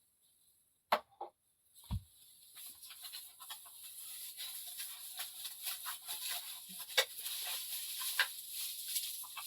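Two sharp knocks, then a small fire catching: a steady hiss that slowly grows, dotted with many small pops and crackles.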